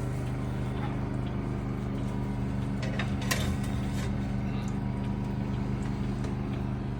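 Microwave oven running with a steady hum, a few faint clicks about three seconds in.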